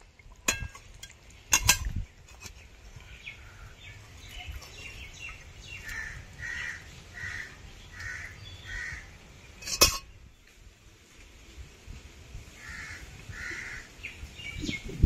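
A bird calling: a run of about six short calls, then two more a few seconds later. A few sharp knocks or clinks stand out above them, the loudest near two seconds in and near ten seconds in.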